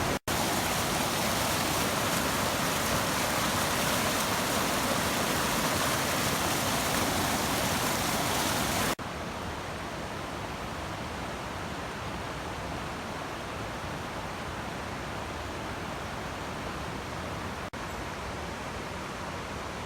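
Steady rush of white water from the Puntledge River at Nymph Falls. It breaks off for an instant just after the start, drops to a quieter, duller rush about halfway through, and breaks off for an instant again near the end.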